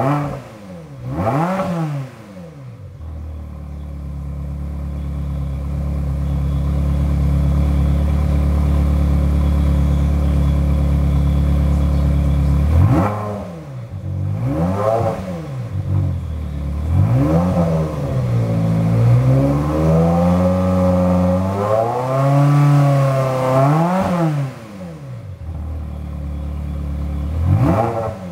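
Ferrari 360 Modena V8 running through a freshly fitted ANSA aftermarket exhaust, revved while parked. A quick blip comes first, then the engine is held at a steady raised speed for about ten seconds, then comes a string of sharp revs and wavering throttle, with one last blip near the end. The sound is fairly quiet for the exhaust, because the new system is not yet heat-seasoned.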